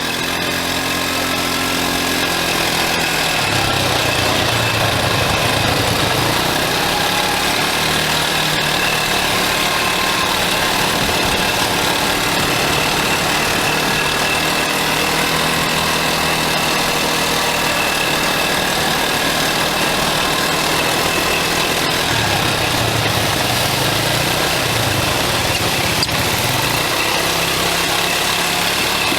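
Quad bike engine running under way, its pitch rising and falling with the throttle.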